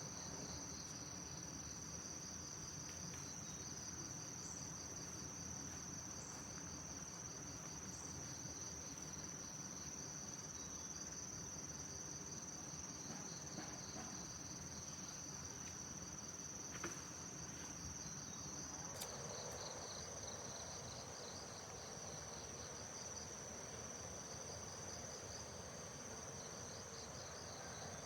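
Steady outdoor insect chorus: a continuous high-pitched trill with a fast pulsing beneath it. About two-thirds of the way through, a lower pulsing hum joins in.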